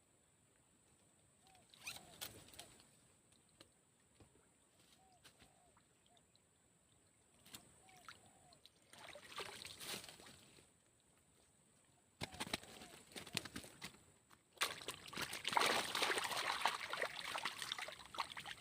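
Water splashing and sloshing in several separate bursts, the longest and loudest lasting the final few seconds.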